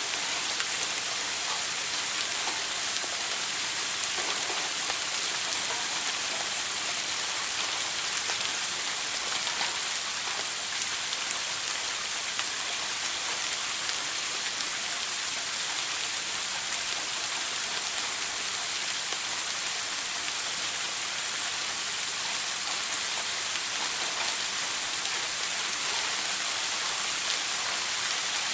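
Running shower water: a steady spray hiss with scattered droplet patter.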